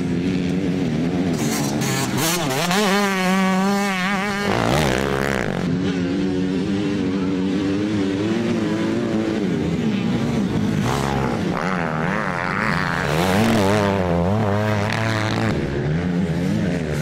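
Motocross bike engines racing, revving up and down over and over with quick rises and falls in pitch, more than one engine heard at once.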